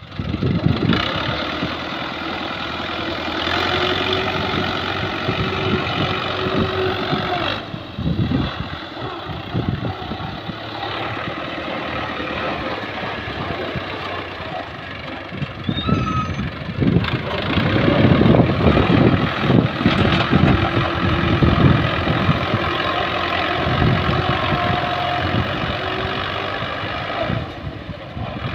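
Tractor's diesel engine running while working a front blade. The engine note rises and falls with the load, and it is loudest and roughest a little past the middle.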